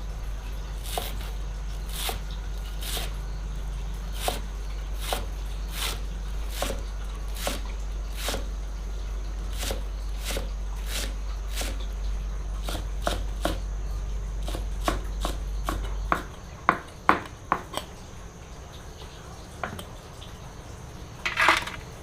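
Irregular light knocks or taps, about one or two a second, over a steady low hum. The hum stops about sixteen seconds in, and a few louder knocks follow.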